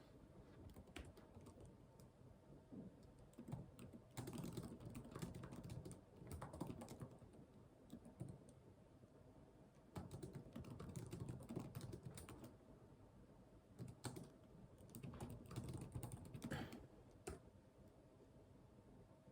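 Computer keyboard typing, faint, in runs of a few seconds with short pauses between.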